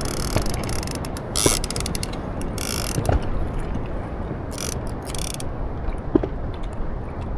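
A fishing reel's mechanism ratcheting in several short bursts, each about half a second long, over a steady low rumble.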